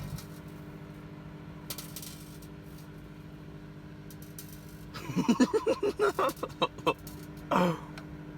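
Microwave oven running with a steady hum. About five seconds in comes a loud run of short, rapid pitched pulses lasting about two seconds, then one short sliding tone near the end.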